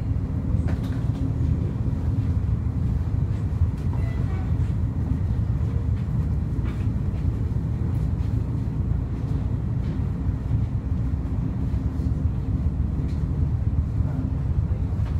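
Train noise: a steady low rumble with a faint steady hum and a few light clicks.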